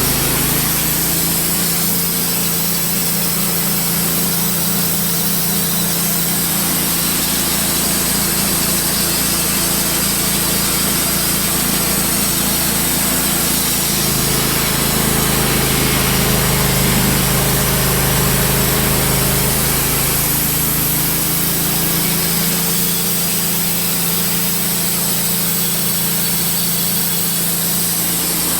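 Wood-Mizer LT15 portable band sawmill running, its blade cutting through a maple log. The sound is steady, with the engine note changing for several seconds about halfway through.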